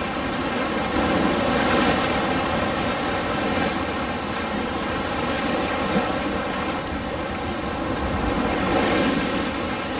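Ocean waves washing on a shore, a continuous rushing surf that swells a little around two seconds in and again near the end.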